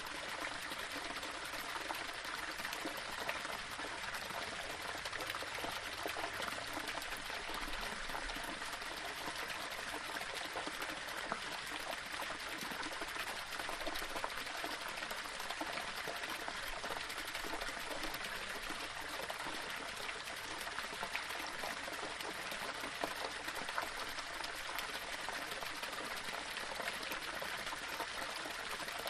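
Small waterfall splashing and trickling over stones, a steady continuous rush of running water.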